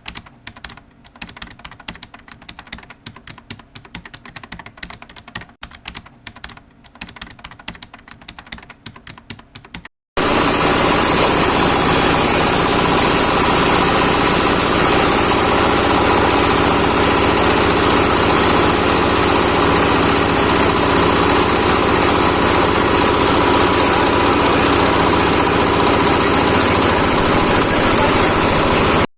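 A fish-waste grinding machine runs loudly and steadily, starting abruptly about ten seconds in. Before that there is a quieter, rapid patter of clicks and light knocks.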